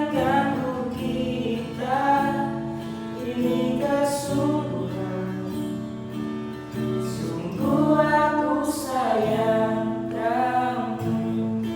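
Several voices singing a slow song together in long held notes, over steady instrumental chords.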